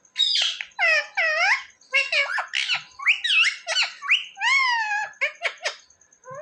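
Indian ringneck parakeet vocalising: a rapid run of short, high, squeaky calls whose pitch swoops up and down, the chatter of a talking parrot.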